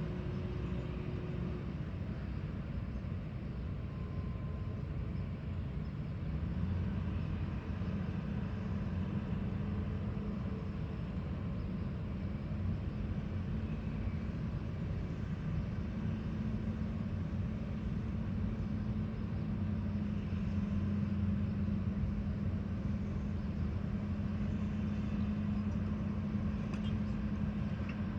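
Heavy construction machinery engine running steadily, its pitch stepping up slightly a few seconds in and again about halfway through.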